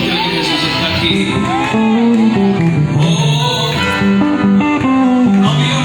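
Live worship band music led by guitar, with singing.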